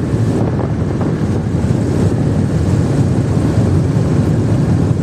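Steady low rumble of a passenger jet, heard from inside the cabin.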